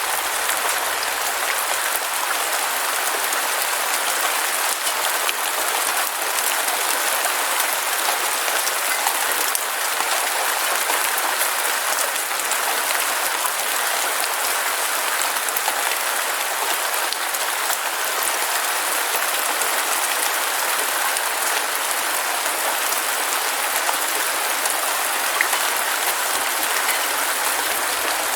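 Heavy rain falling steadily: a dense, even hiss of many small drop impacts, with no thunder.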